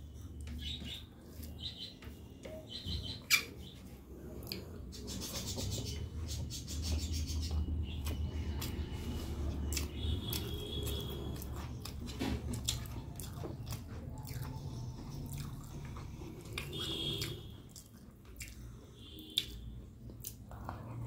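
Close-miked eating: a person chewing soft mouthfuls of rice and fish, with wet mouth clicks and smacks and fingers working rice on a plate. There are a couple of sharper clicks, one about three seconds in and one near the end.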